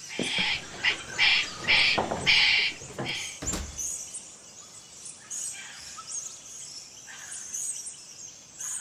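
Birds chirping and tweeting. A quick run of hissing chirps comes in the first three seconds, then a dull thump about three and a half seconds in, then sparser, fainter chirps.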